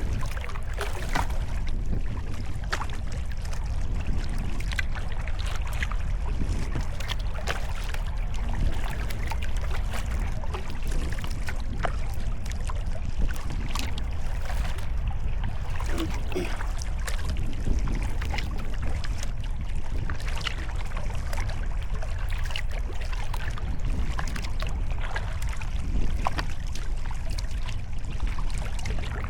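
Sea kayak paddle strokes: the blades dip and pull through the water with irregular splashes and drips. Under them runs a steady low wind rumble on the microphone.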